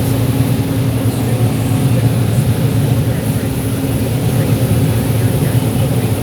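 John Deere 9760 STS combine running steadily while harvesting corn: its engine and threshing machinery make a constant low drone.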